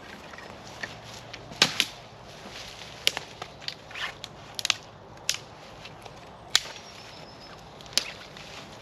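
A series of sharp cracks and snaps, about eight, at irregular intervals a second or so apart.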